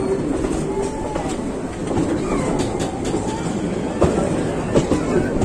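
Passenger train coach running on the rails, heard from on board: a steady rumble with the wheels clicking over rail joints, the clicks sharper and more frequent from about four seconds in.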